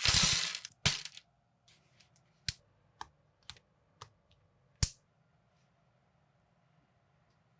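Plastic building bricks clattering briefly, then clicking and tapping as pieces are handled and snapped together: about six sharp clicks spread over four seconds, the last one the loudest.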